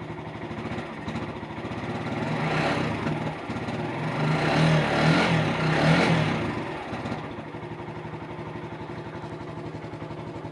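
Regulmoto SK150-8 motorcycle's 150 cc single-cylinder four-stroke engine idling evenly, blipped twice with the throttle, then settling back to a steady idle. It runs clean and smooth.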